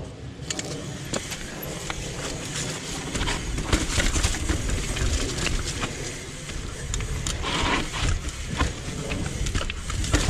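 Mountain bike riding down a dirt trail: wind rumble on the helmet camera's microphone, with the tyres running over the ground and many sharp clicks and rattles from the bike. The noise gets louder about three seconds in.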